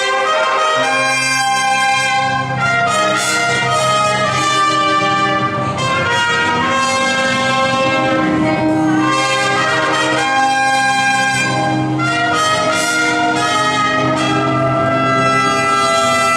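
Brass fanfare: trumpets and trombones play held notes in harmony, moving from chord to chord every second or two without a break.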